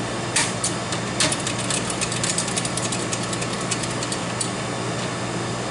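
Steady hum of the IGT S2000 slot machine, with a run of quick clicks and crackles from about half a second in until about four and a half seconds, thickest in the middle.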